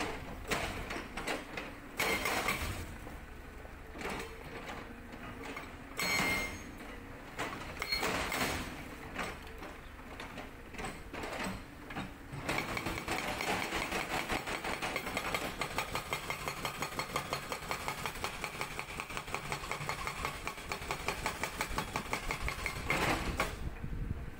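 Sangdo SD220 hydraulic breaker on a CAT 320D excavator, breaking rock. In the first half there are irregular knocks and bursts of engine noise. About halfway through, the breaker settles into a steady run of rapid hammer blows that stops shortly before the end.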